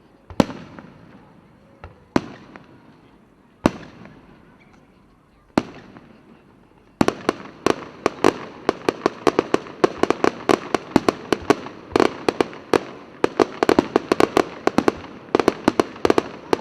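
Fireworks going off: single shell bursts a second or two apart, each followed by a fading rumble, then about seven seconds in a rapid barrage of many crackling bangs.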